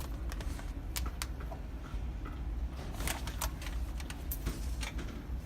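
Handling noise as a bag of microwave popcorn is set inside a microwave: scattered light clicks and rustles, over a steady low hum.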